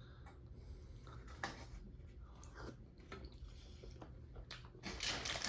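Close-up mouth sounds of a person chewing a mouthful of chicken saagwala and naan, with soft wet clicks. About five seconds in, a louder rustling starts.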